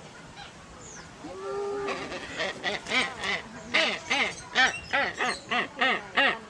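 A bird calling in a rapid series of loud, nasal calls, each rising and falling in pitch. The calls begin about two seconds in, after one short held note, and come faster towards the end.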